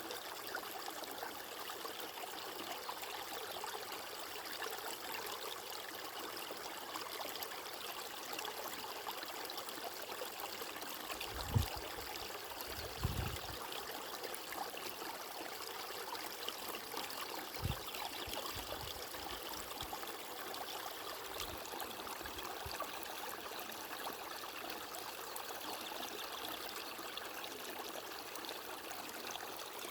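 Stream water flowing and trickling steadily. A few brief low thumps come near the middle, twice close together and once more a few seconds later.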